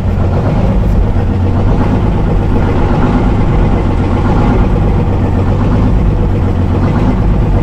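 Detroit Diesel engine of a Chevy C90 semi truck idling steadily.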